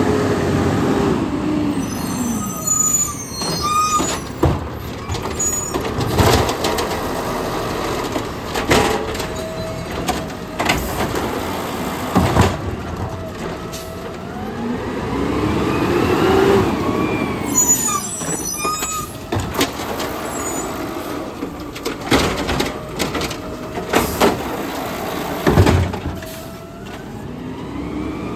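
Garbage truck working its route: the engine revs up and falls back twice to drive the hydraulics, with high squeaks, air-brake hisses and repeated sharp bangs of metal and bins.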